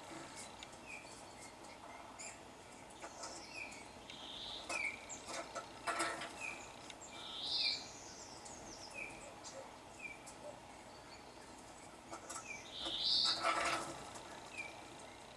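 Birdsong played through a TV: a short chirp repeats about once a second, with a few louder warbling calls over it.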